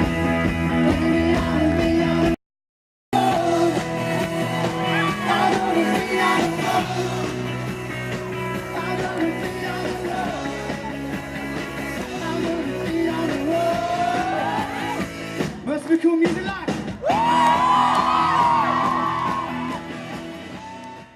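Live rock band playing guitar, bass and drums with a singer. The sound drops out completely for under a second about two and a half seconds in, and fades out at the very end.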